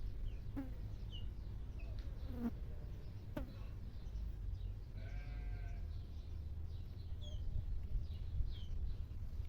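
Rural outdoor ambience: small birds chirping now and then, and one bleat from a goat or sheep lasting about a second, about five seconds in, over a steady low rumble, with a few sharp clicks near the start.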